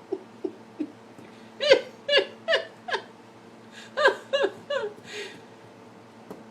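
Beagle giving a run of short, high yelping barks, each dropping in pitch: three soft ones, then a loud group of four and a group of three.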